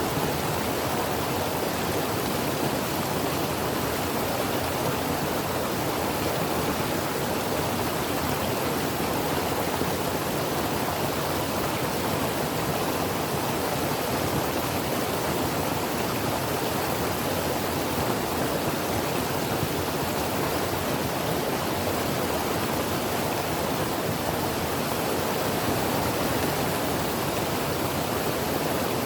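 Creek water flowing over rocks: a steady, even rushing that does not change.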